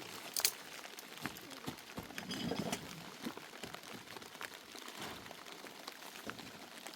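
Scattered light knocks and clicks, with one sharp clack about half a second in.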